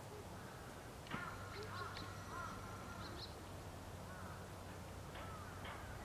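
Faint birds calling in short arched notes, repeated several times, over a low steady hum.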